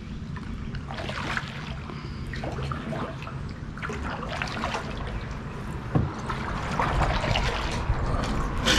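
Water trickling and splashing in small, irregular splashes close to a kayak.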